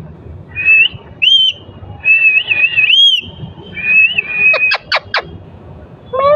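Pet parrot whistling: a run of wavering, warbling whistles, then a few quick sharp chirps about five seconds in.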